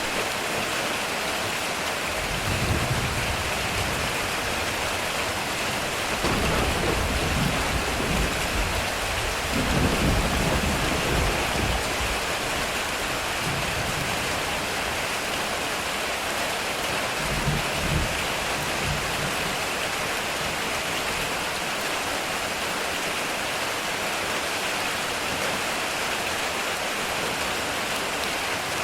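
Heavy rain falling steadily on a metal roof, with several low rolls of thunder: a short one early, a long rumble lasting several seconds that is loudest near the middle, and a brief one after it.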